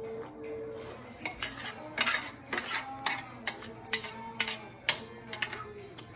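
A spoon clicking and scraping against a plate while eating: about a dozen irregular sharp clinks spread through the middle of the sound, over faint background music.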